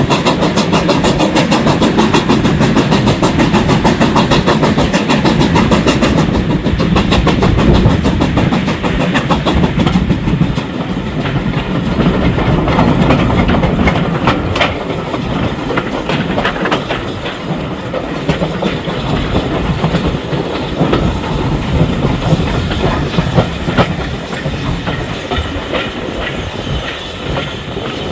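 A train hauled by the BR Standard Class 4 steam locomotive 75014 running along the line, heard on board. There is a fast, even clatter that turns duller after about six seconds and then slowly grows quieter.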